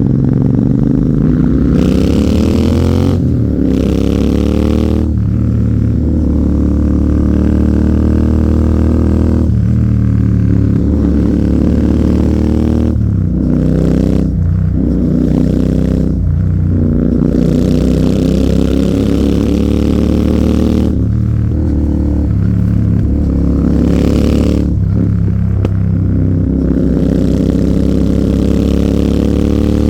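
Royal Enfield Continental GT 650's parallel-twin engine through an aftermarket AEW exhaust, pulling hard. The note climbs under acceleration, then drops sharply at each gear change or roll-off, several times over, with short spells of wind rush.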